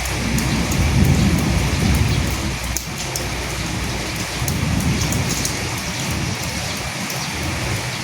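Steady rain on a surface with scattered drops ticking, and a low rumble of distant thunder that swells about a second in and again midway.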